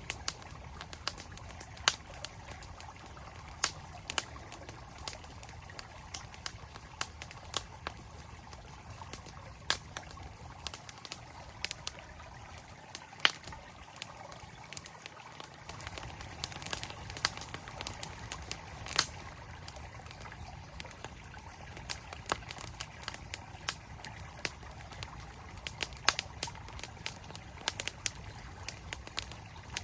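Campfire crackling with frequent irregular sharp pops over the steady rush of a flowing mountain stream.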